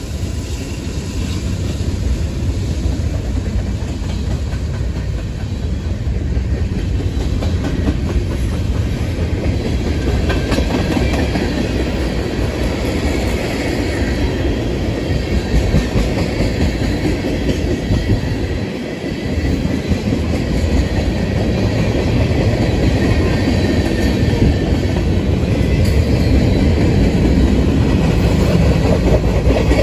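Norfolk Southern freight cars, covered hoppers and tank cars, rolling past at close range: a steady rumble and clatter of steel wheels on the rails, with a short dip a little past halfway.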